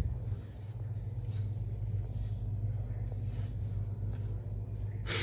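Bosch Greenstar combi boiler running in low fire, a steady low hum. A brief sharp click comes right at the end.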